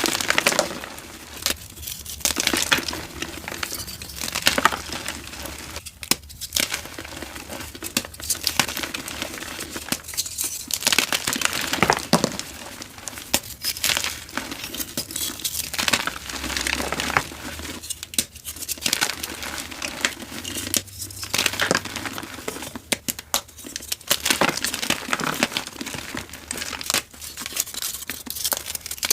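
Dyed gym chalk crumbling and being crushed: dense, crackly crunching in bouts of a few seconds, with brief lulls between them.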